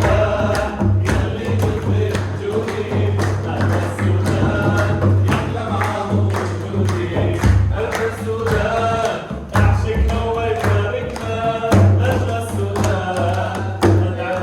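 Voices singing a Sudanese song together over a steady, driving drum beat.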